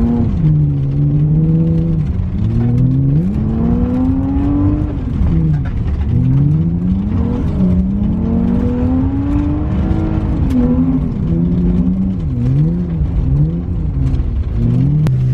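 BMW E36 engine revving hard while drifting, its pitch climbing and dropping again and again as the throttle is worked, with quicker up-and-down swings near the end.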